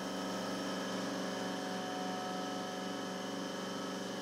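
Taig CNC mill's spindle running while a small end mill cuts a pocket into an aluminum block. The sound is a steady machine hum and whine that holds even throughout.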